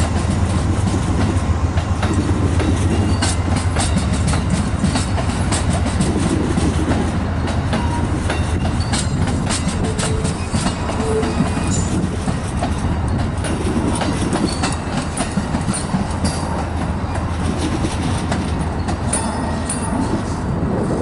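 Passenger train rolling past, its wheels clicking over rail joints over a steady low drone, with a few brief wheel squeaks near the middle.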